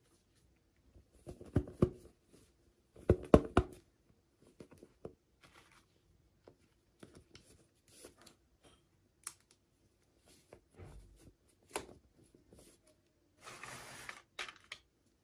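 Hands unboxing toy doll packaging: scattered small clicks and taps, two clusters of louder knocks in the first few seconds, and a short tearing rustle near the end.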